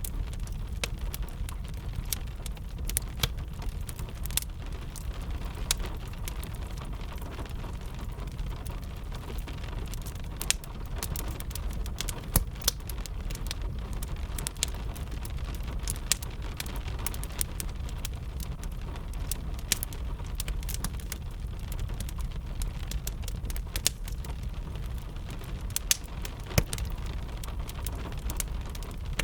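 Steady rain with a low rumble, over the irregular snaps and pops of a crackling wood fire.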